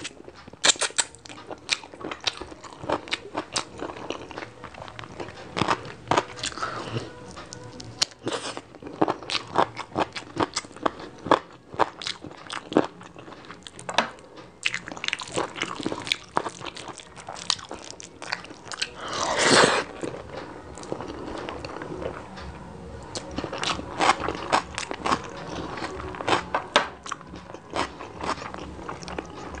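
Close-miked chewing and crunching of curry and rice eaten by hand: many irregular wet mouth clicks and crunches, with one longer, louder mouth sound about two-thirds of the way through.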